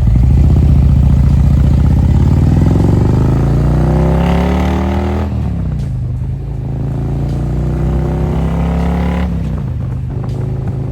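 Motorcycle engine pulling hard, its pitch rising for about five seconds, dropping sharply at a gear change, climbing a little again, then dropping once more about nine seconds in and settling to a steady run.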